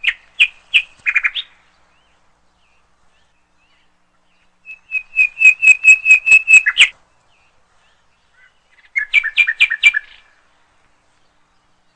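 A songbird singing three short phrases of quick, repeated high chirps: one at the start, a longer, louder run of about a dozen notes about five seconds in, and another phrase about nine seconds in, with silence between them.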